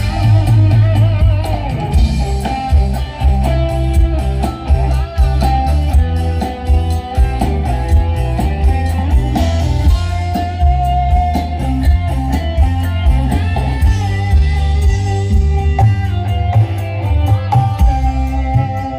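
Loud music with a heavy, pounding bass beat, played through a large concert PA sound system during a sound check.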